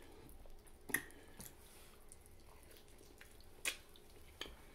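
Wet mouth sounds of someone chewing barbecue ribs, with a few sharp wet smacks: one about a second in and two near the end.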